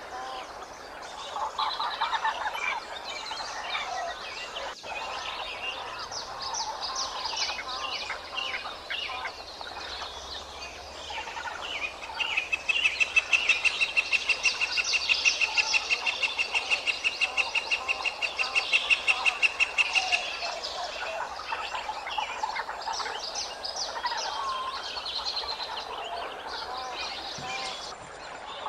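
Small birds chirping and calling, with a loud, fast, even trill lasting some eight seconds about halfway through.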